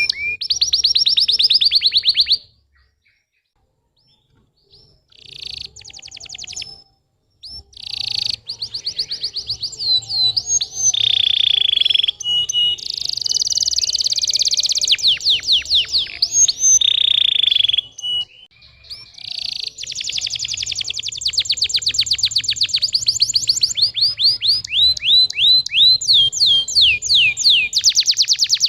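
Domestic canary singing in fast trills and rolls of rapidly repeated high notes, with a pause of a few seconds near the start before the song resumes and runs on continuously.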